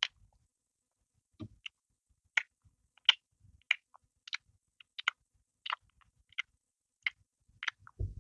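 Close-up chewing of crusty bread roll: irregular crisp crackles and wet mouth clicks, about two a second. A soft low thump comes about a second and a half in and again near the end.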